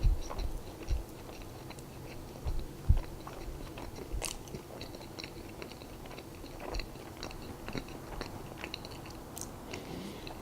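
Close-miked chewing of a Krispy Kreme donut: soft, wet mouth sounds with small clicks and smacks. A few low thumps sound in the first three seconds.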